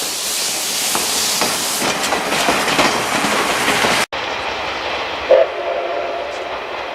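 Steam train running by, a loud rushing noise with faint wheel clatter. It breaks off abruptly about four seconds in and resumes, and a brief pitched tone sounds shortly after.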